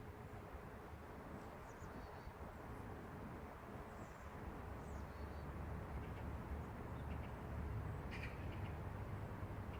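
Steady low rumble of city traffic, swelling slightly in the second half, with a few faint, short bird chirps scattered over it.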